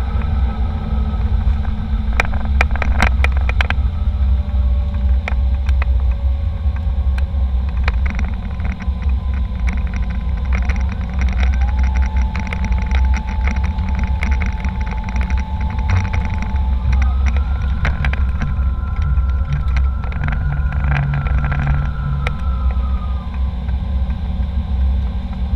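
Airliner cabin noise: a steady low rumble with faint jet-engine whine tones that shift in pitch now and then, and a few scattered clicks.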